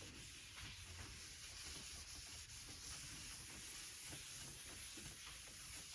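Paper towels wiping and rubbing over oily differential parts: a steady, soft scrubbing hiss with a few faint ticks.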